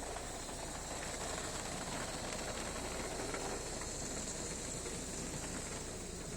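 Ryko SoftGloss Maxx car wash applying triple foam: a steady hissing spray over the car, heard from inside the car.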